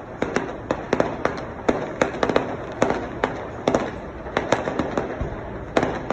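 Fireworks display bursting: many sharp bangs at irregular intervals, often several a second, over a continuous noisy background of further explosions.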